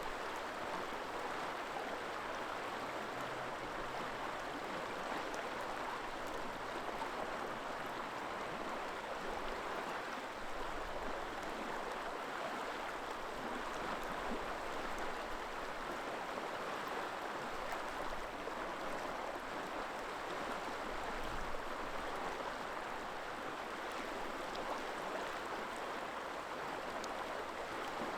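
River water flowing and rushing steadily in an even, unbroken wash.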